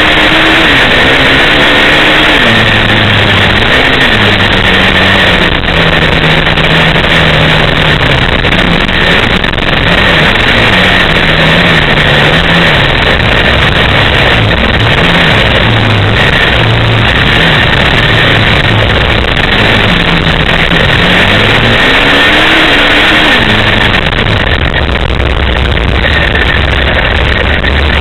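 Dirt bike or ATV engine revving up and down several times, its pitch rising and falling with the throttle, under a dense, loud rush of noise.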